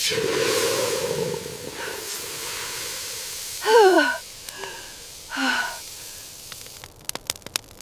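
A steady hiss, then three short cries that fall in pitch, about a second apart, followed by a few sharp clicks near the end.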